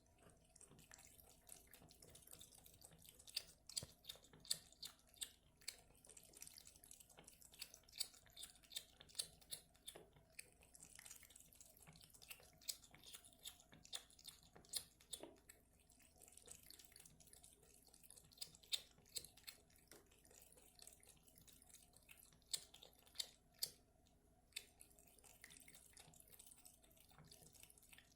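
Cat lapping water from a bucket, making quiet, irregular clicking and lip-smacking sounds at roughly one or two a second, in runs with brief pauses.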